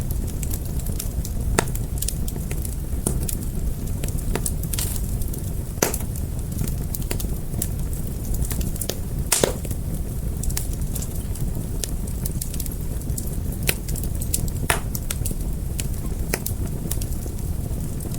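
Fire crackling: irregular sharp pops and snaps over a steady low rumble of flames, with the loudest pops about six and nine and a half seconds in.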